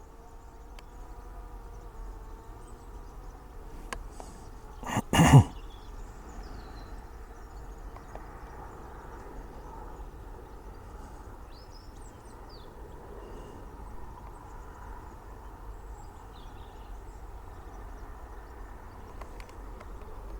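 Quiet open-field ambience with a steady low rumble and faint, scattered high chirps from birds. About five seconds in comes one short, loud double burst of unknown source.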